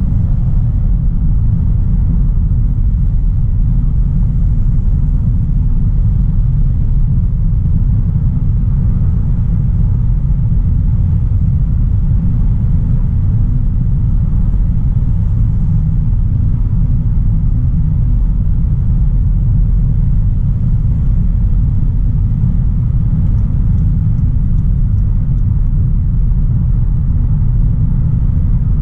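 2016 Audi A3 Sportback's 1.4 TFSI turbocharged four-cylinder petrol engine and road noise while driving. The low rumble holds steady, with no revving.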